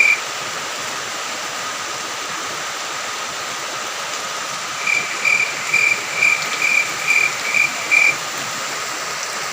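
Steady hiss of falling rain, with a cricket chirping in an even series of about two chirps a second from about five seconds in to about eight seconds in.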